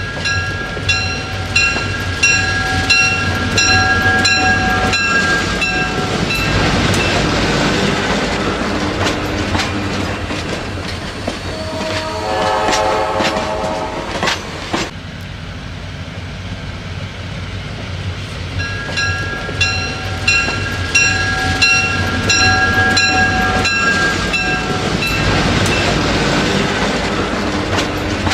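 Southern Pacific diesel passenger train rolling past, its wheels rumbling and clicking over the rails, with the horn sounding two long blasts of about six seconds each, one just after the start and one about 18 seconds in, and a shorter sounding around 12 to 15 seconds in.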